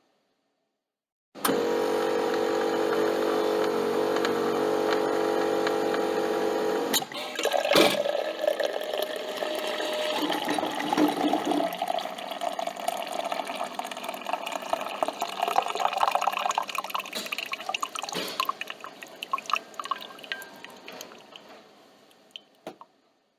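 Coffee machine at work: its motor hums steadily for about five seconds and stops with a click, then liquid splashes and trickles into a cup with scattered drips, slowly fading out near the end.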